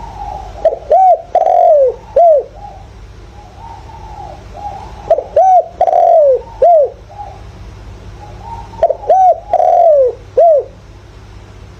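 Spotted dove cooing: three loud phrases about three and a half seconds apart, each two short coos, a longer falling coo and a short final coo, with fainter cooing in between. It is a decoy bird's call, used to draw and provoke wild doves.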